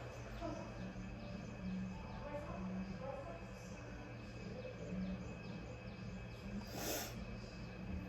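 Café ambience: indistinct background chatter over a steady low hum, with a short hiss about seven seconds in.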